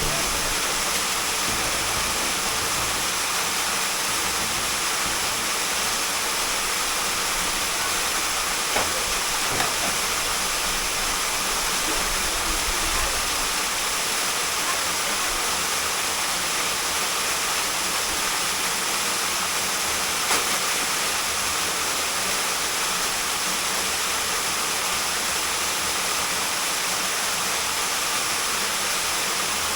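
Waterfall pouring: a steady, unbroken rush of falling water, with a couple of faint knocks.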